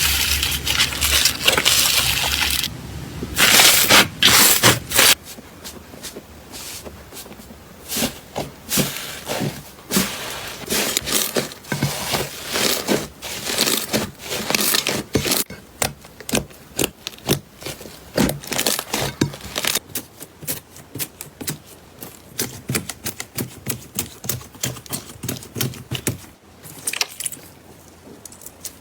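Slime being squeezed and worked by hand, giving a run of small crackles and pops. It is loudest and densest for the first three seconds, then goes on as quicker, softer clicks.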